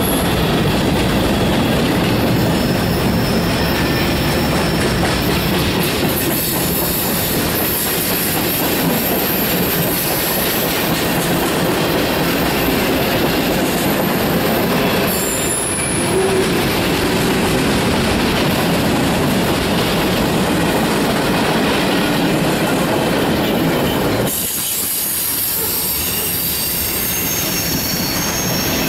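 Freight cars rolling past close by: steady rumble of steel wheels on rail, with a high-pitched wheel squeal coming and going over it. The low rumble thins abruptly a few seconds before the end.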